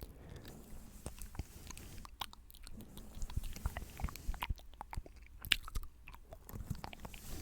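Close-miked ASMR mouth sounds, wet clicks and smacks scattered throughout, over soft strokes of a brush across the microphone.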